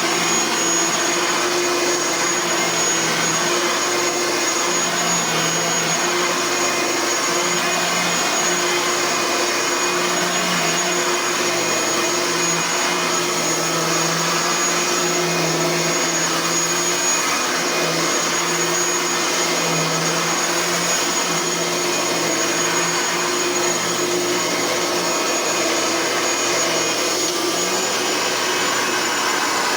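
Bissell Power Partner 800 10-amp upright vacuum cleaner running steadily while vacuuming, its motor fan freshly replaced, with a constant high whine above the airflow rush.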